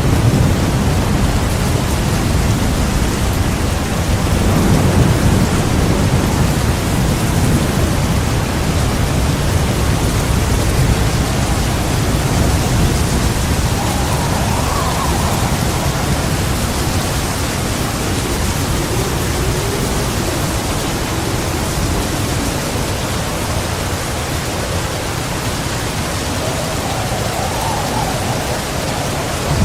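Heavy rain falling in a steady, even hiss, with a low thunder rumble during the first several seconds that fades away.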